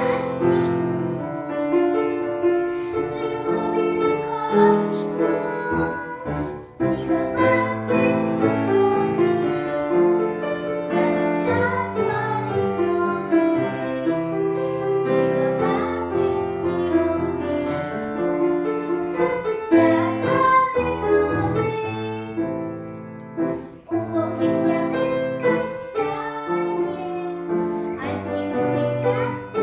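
A girl singing a song over a piano accompaniment.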